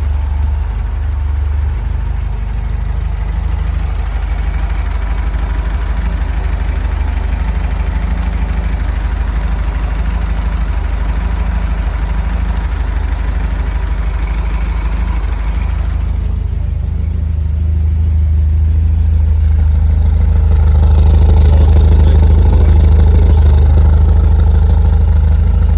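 1982 Fiat 124 Spider's twin-cam four-cylinder engine idling after a cold start. About 16 seconds in the sound turns deeper, and it grows louder over the next few seconds, then holds steady.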